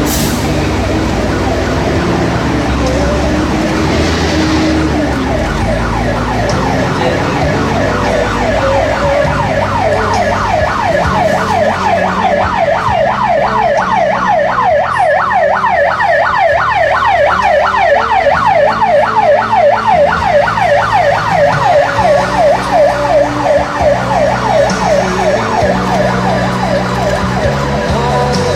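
A siren in a fast up-and-down yelp, swelling from about eight seconds in, loudest past the middle, then fading, over music playing from a loudspeaker.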